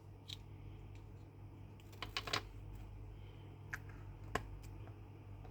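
Light clicks and taps of small plastic craft pieces being handled, with a tight cluster of them about two seconds in and two single clicks later, over a low steady hum.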